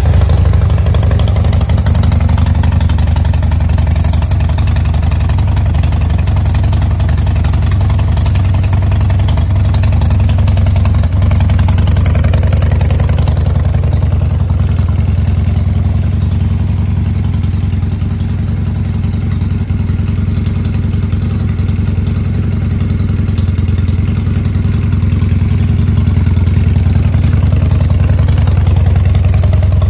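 A 2006 Harley-Davidson Dyna Wide Glide's 88 cubic inch Twin Cam V-twin idles with a steady low rumble.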